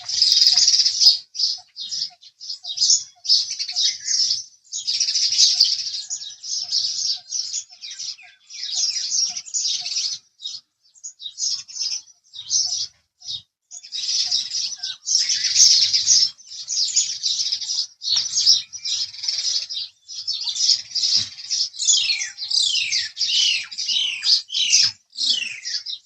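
House sparrows chirping in quick, dense runs of short notes with only brief gaps. Near the end comes a series of quick falling notes.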